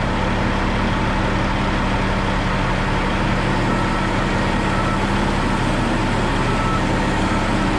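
An engine idling steadily, a constant low hum, under an even hiss.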